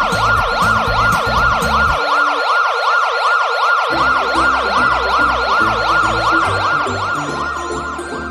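Electronic emergency-vehicle siren in fast yelp mode, its pitch sweeping up and down about three times a second, over a low musical beat that drops out briefly about two seconds in.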